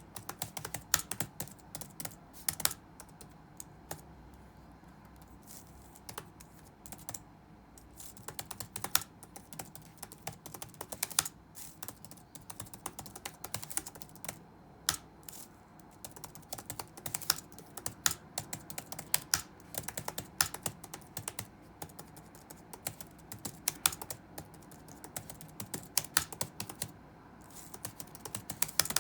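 Touch-typing on a computer keyboard: rapid runs of key clicks in irregular bursts, broken by short pauses, over a faint steady low background noise.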